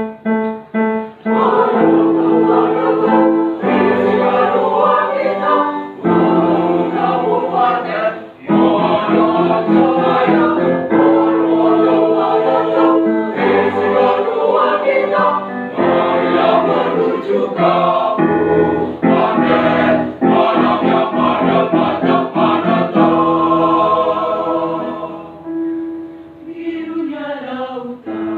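Mixed choir singing in harmony with piano accompaniment, in held chords and phrases that break off every couple of seconds.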